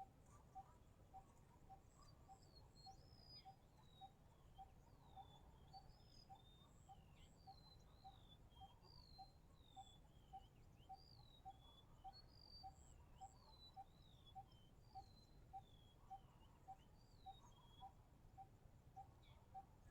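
Faint bird song: short whistled notes that swoop up and down, over an even series of short low pips repeating about twice a second.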